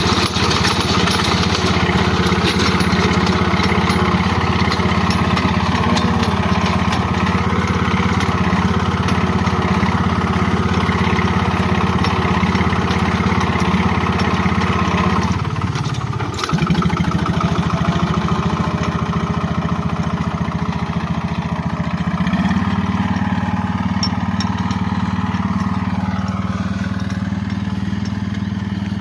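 Captain tractor's engine running steadily. About halfway through it briefly slows and picks back up, and its note shifts slightly later on.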